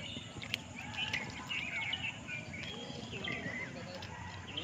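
Several birds chirping and calling, a steady run of short, varied notes, with a couple of brief sharp clicks.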